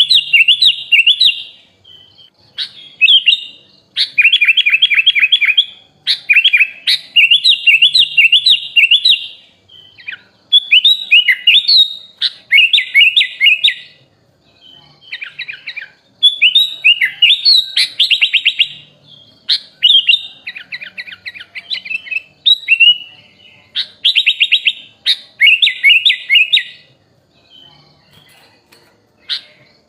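Sooty-headed bulbul (kutilang) singing: phrase after phrase of fast, chattering trills and slurred whistles, separated by short pauses, with a quieter stretch near the end.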